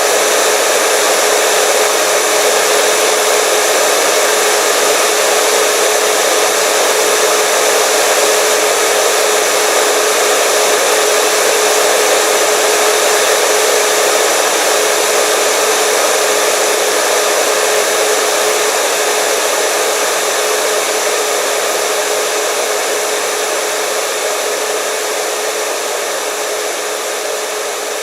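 Hair dryer running steadily: an even rush of blown air with a steady motor whine, easing slightly in level over the last few seconds.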